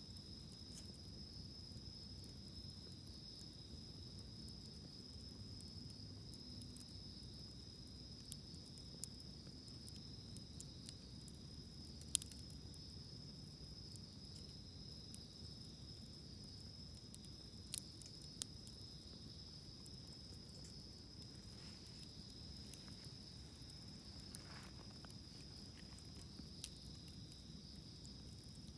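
Wood campfire burning with scattered sharp crackles and pops, the loudest about twelve seconds in, over a steady high-pitched insect chorus.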